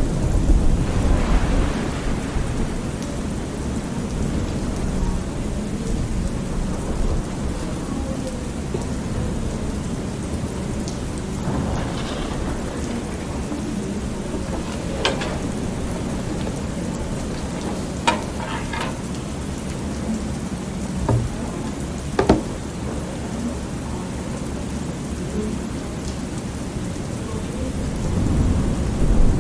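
Thunderstorm: steady rain with rolling thunder that swells in the first couple of seconds and again near the end. A few short, sharp clicks sound in the middle.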